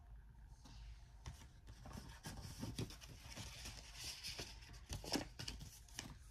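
Faint rustling and crinkling of packaging being handled by hand, with scattered small clicks and taps, starting about a second in.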